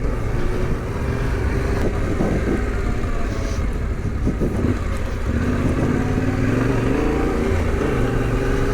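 Adventure motorcycle's engine running on a slippery muddy trail, its pitch rising and falling with the throttle.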